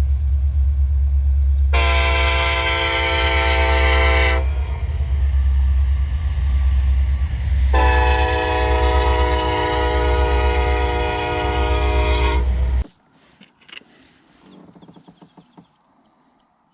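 Train horn sounding two long blasts, the second longer, over a steady low rumble that cuts off sharply about 13 seconds in.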